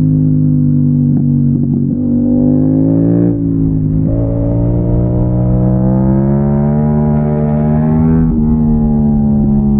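Yamaha MT-07's parallel-twin engine accelerating hard, its pitch climbing, dropping sharply at an upshift about three seconds in, then climbing again to another upshift near the end. A low rumble of wind noise runs underneath.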